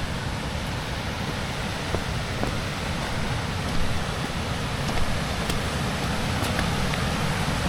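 Blizzard wind blowing across the microphone: a steady rushing noise with a heavy low rumble and a few faint clicks.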